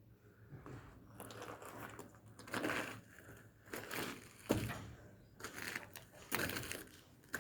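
Wood-chip fire burning on the moving step grates of a biomass boiler furnace: irregular rushing, crackling surges about once a second, with one sharp crack about four and a half seconds in.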